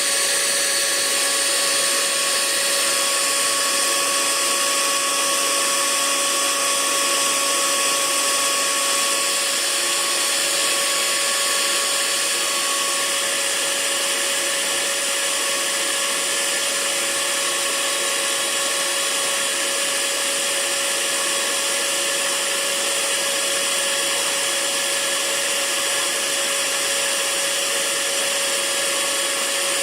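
Hair dryer running steadily: an even rushing hiss with a constant motor hum, and a faint higher tone that fades out before the middle.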